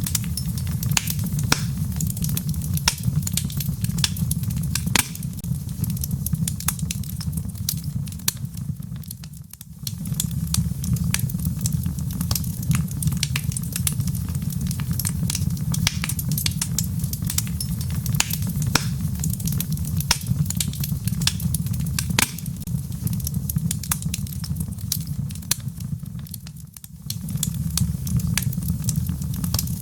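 Wood fire crackling in a fireplace, with many sharp pops and snaps over a steady low rumble of fire and rain. The sound fades briefly twice, about ten seconds in and near the end.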